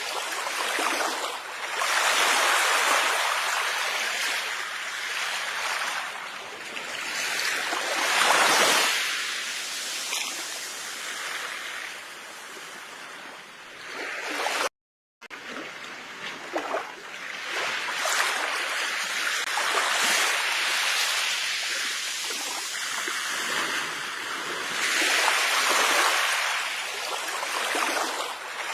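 Sea waves washing onto a shore, swelling and falling back every several seconds. The sound cuts out completely for a split second about halfway through.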